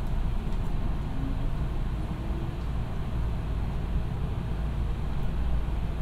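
Hankyu 7000 series electric commuter train heard from inside the passenger car while it runs along the track: a steady low rumble of wheels and running gear.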